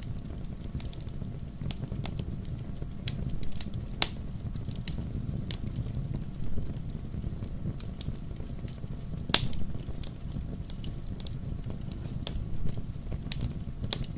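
Wood fire burning with a steady low rumble and irregular sharp crackles and pops, a louder pop about four seconds in and another a little past nine seconds.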